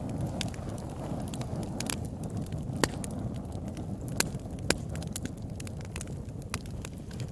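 Campfire burning: wood crackling with frequent sharp pops over a steady low rush of flames. The loudest pops come about three seconds in and just under five seconds in.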